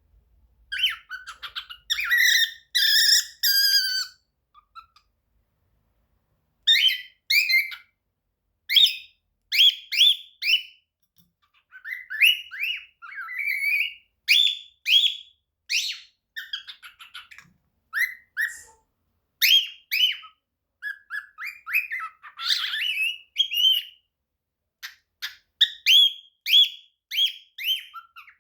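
Young cockatiel whistling its song, still learning it: phrases of short whistled notes and quick pitch glides, with gaps between them and a pause of about two seconds around five seconds in.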